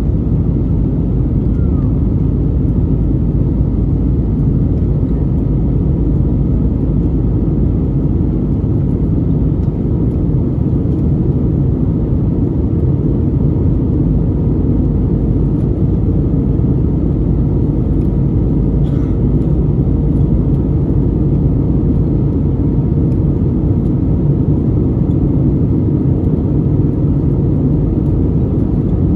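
Steady low rumble inside the passenger cabin of an Airbus A320neo with CFM LEAP-1A engines: engine and airflow noise with a faint steady hum.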